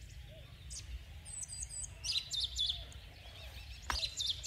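Birds chirping: a few short, high chirps about a second in, then a run of quick repeated chirps around the middle, over a steady low hum. A sharp click near the end.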